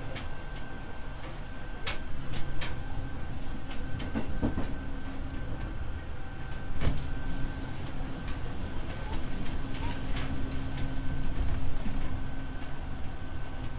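Running sound heard inside the motor car of a Seibu 301 series resistance-control electric train: a steady rumble with an even motor and gear hum at a constant pitch, broken by occasional sharp clicks from the wheels on the track.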